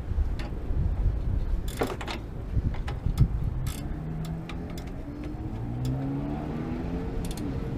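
A car engine running and slowly picking up speed, over a low rumble with a few scattered clicks and knocks.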